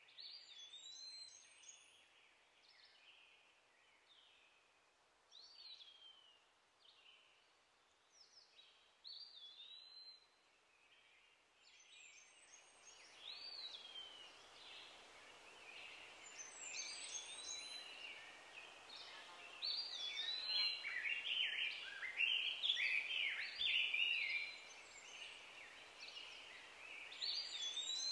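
Birds chirping and singing over faint outdoor ambience: short swooping calls, sparse at first, then busier and louder from about halfway, with many calls overlapping.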